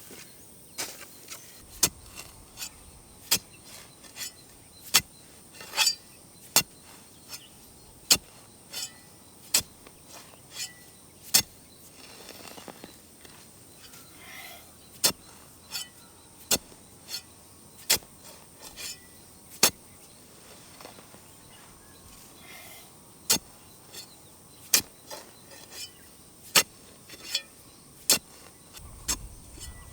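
Digging tool striking into soil over and over at a steady pace, a little slower than once a second, as a planting pit is dug. A steady high-pitched insect drone runs underneath.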